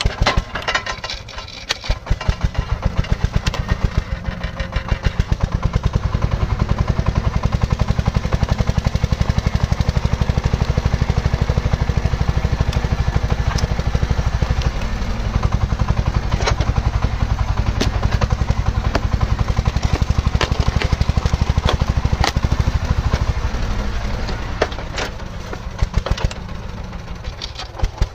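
Tractor engine running with a fast, even thumping beat, easing off briefly about two seconds in and again near the end.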